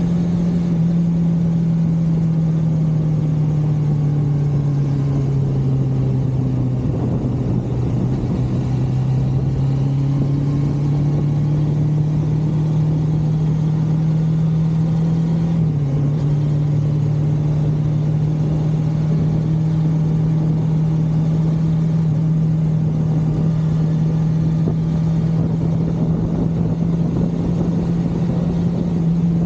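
1982 Suzuki GS550L's air-cooled inline-four engine running under way. Its pitch sags a few seconds in and climbs back as the bike slows and speeds up again, with a brief dip about halfway through.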